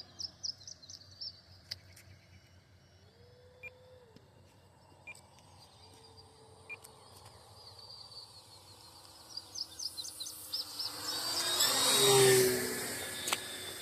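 Electric RC warbird planes' motors and propellers flying in the air, their drone rising and falling in pitch with throttle and distance, swelling to a loud close pass about two seconds before the end. Birds chirp at the start and again just before the pass.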